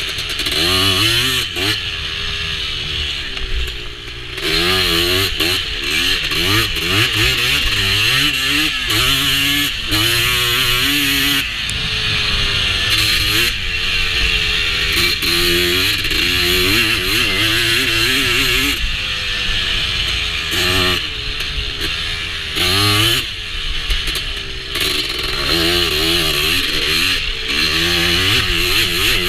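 Honda TRX250R quad's two-stroke single-cylinder engine being ridden hard, its pitch climbing and dropping again and again with the throttle and gear changes. It eases off briefly about four seconds in.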